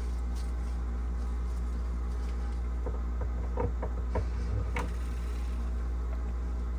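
A steady low electrical hum, with a few light clicks and taps about halfway through as the stiff, corrosion-seized evaporator fan is worked by hand.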